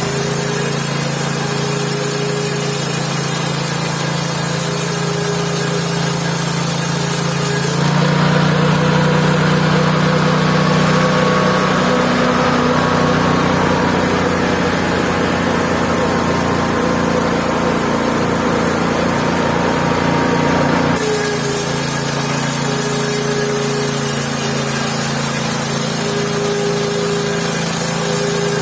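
Mobile band sawmill running, its engine a steady drone. A high hiss sounds over it for about the first eight seconds, drops away, and returns about two-thirds of the way through.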